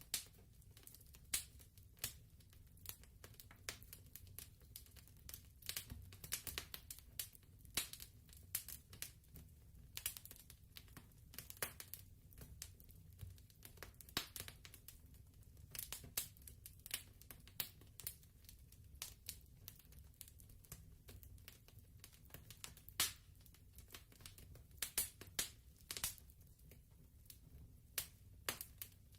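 Wood fire crackling: irregular sharp pops and snaps at uneven intervals over a steady low rumble.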